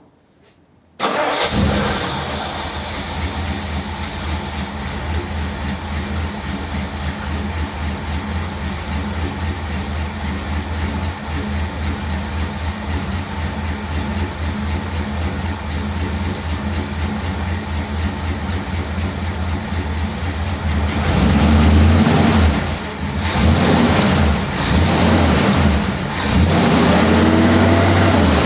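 A 1957 Ford Thunderbird's Y-block V8, running on a two-barrel carburettor with fresh spark plugs, starts about a second in and settles to a steady run. Near the end it is revved up and down several times. It runs well now, after the old plugs had been fouled by bad running.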